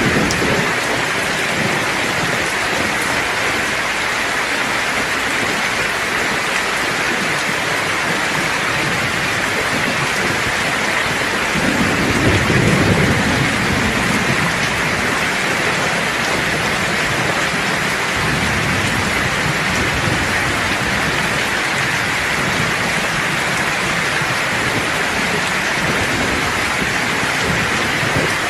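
Steady heavy rain hiss with low rolls of distant thunder, the strongest rumble swelling about twelve seconds in.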